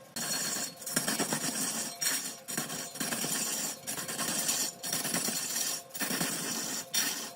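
Mahogany being cut on a woodworking lathe: the turning tool scraping and chattering against the spinning wood in repeated passes about a second long, each broken by a brief pause.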